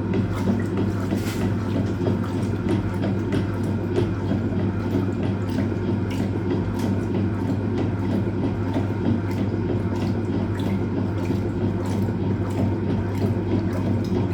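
Hoover Automatic 820 top-loading washing machine running in its rinse, its motor holding a steady hum while water splashes and sloshes in the open tub.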